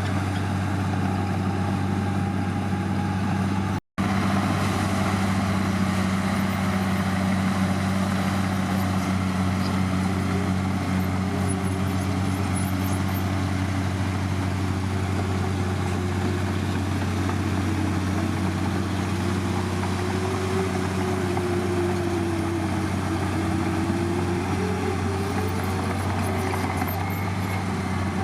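Heavy diesel engine of earthmoving machinery running steadily with a deep, even drone. The sound breaks off for an instant about four seconds in.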